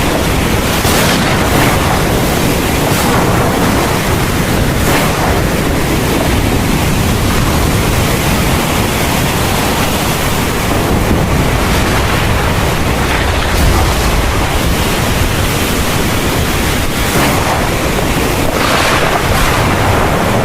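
Heavy thunderstorm rain pouring steadily, a dense even hiss with a deep low rumble underneath.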